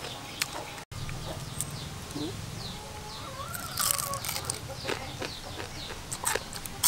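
Crisp fried frog being bitten and chewed, with several sharp crunches from about four seconds in. Behind it, small birds chirp and a chicken calls.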